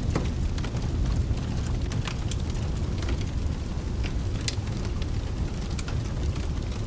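Wood fire crackling, with sharp pops scattered irregularly, over a steady low rumble and a faint hiss of rain.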